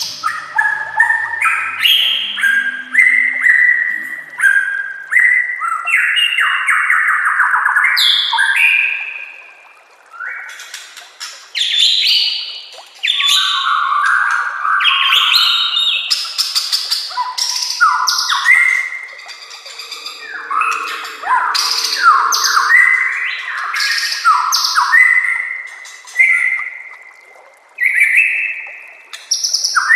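White-rumped shama (murai batu) singing a loud, varied song of quick whistled phrases packed with fill-in calls, breaking off briefly a couple of times.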